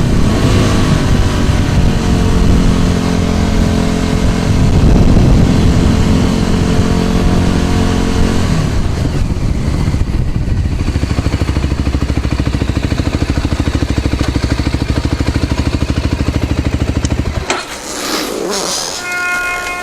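A scooter's small engine running at steady speed, then dropping to a lower, evenly pulsing idle about halfway through, and switched off near the end. After it stops come some clatter and a few short high tones.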